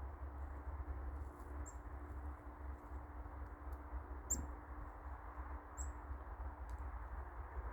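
Black-capped chickadees giving three short, very high chirps, the middle one the loudest, over a steady low rumble.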